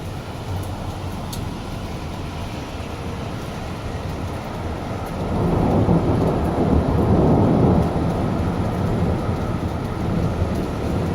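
Continuous rolling thunder, a low rumble that swells louder about halfway through and then eases off a little.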